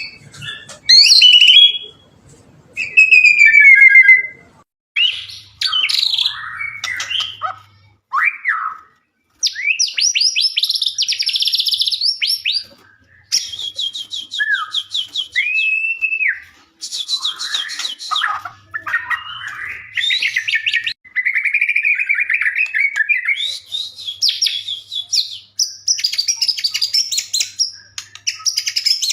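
White-rumped shama singing a loud, varied song: gliding whistled phrases, fast rattling trills and chattering runs of repeated notes, with short pauses between phrases.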